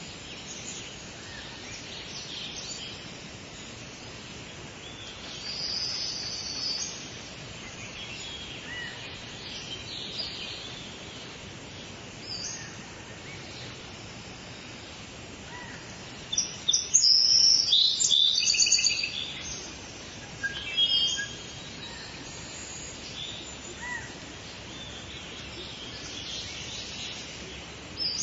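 Wild birds singing and chirping over a steady background hiss, with scattered high calls and a loud run of rapid high chirps about two-thirds of the way through.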